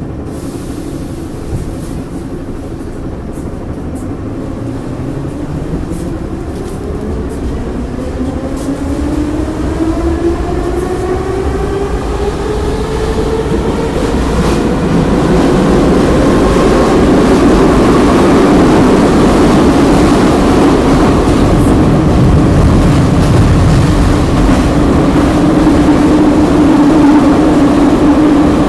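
Kyiv metro train pulling out of a station, heard from inside the carriage: the traction motors whine in several tones that rise in pitch as it gathers speed over about fifteen seconds. It then runs steadily at speed with a rumble from the running gear.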